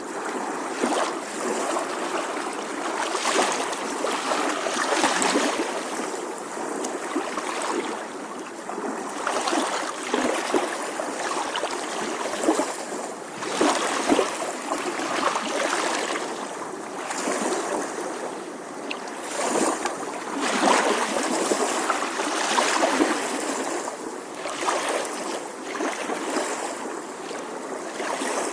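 Small ocean waves lapping on a shore, a continuous wash of water with small splashes and swells every second or two.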